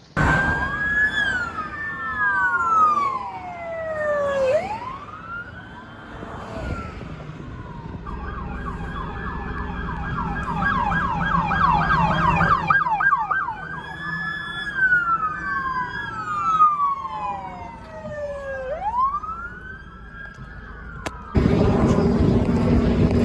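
Police car siren cycling through its modes: a slow rising and falling wail, then a fast yelp for several seconds, then the wail again. Near the end it cuts to louder vehicle and road noise.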